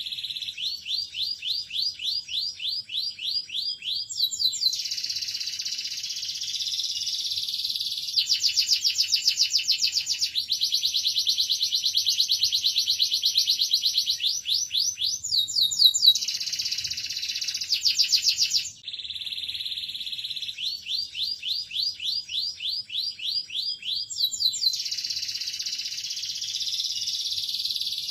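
Domestic canary singing a long, continuous song of fast rolling trills, switching to a new trill every few seconds, with a brief pause about 19 seconds in.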